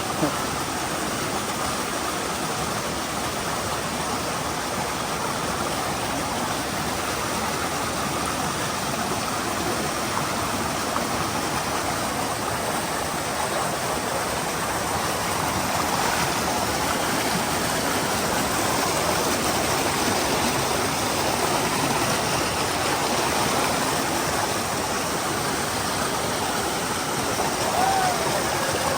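Steady rushing of a mountain stream's water pouring over boulders, an unbroken wash of water noise that grows a little louder about halfway through.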